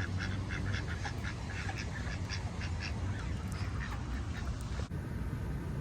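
Ducks quacking in a quick run of short calls, several a second, thinning out about three seconds in.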